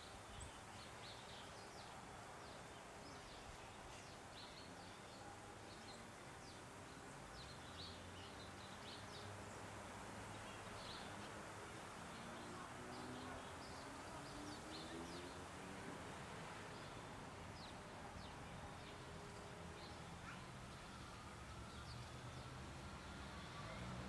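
Faint, short bird chirps scattered throughout, over a steady low outdoor rumble.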